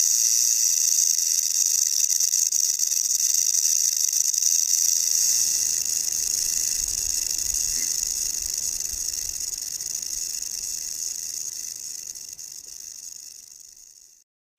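A snake hissing in one long steady hiss, fading away near the end.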